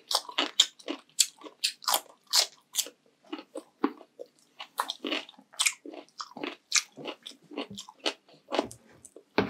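Close-miked chewing of crunchy food: a steady run of crisp crunches, about three a second.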